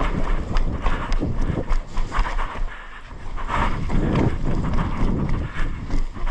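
Running footsteps and gear jostling against a body-worn camera: a quick, irregular run of thuds and knocks with wind rushing over the microphone.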